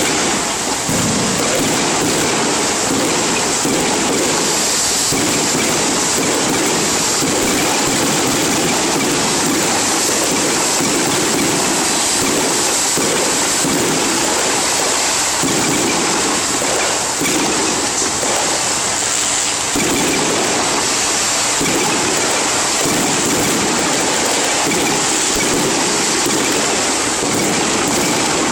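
A long string of firecrackers going off in rapid, unbroken crackling, dense and loud, with no let-up.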